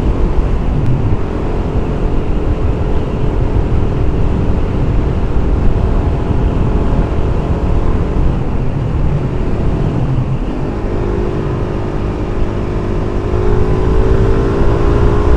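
Wind buffeting a helmet-mounted microphone while riding, over the drone of a single-cylinder supermoto engine at cruising speed; the engine note dips about ten seconds in, then rises slowly as the bike speeds up.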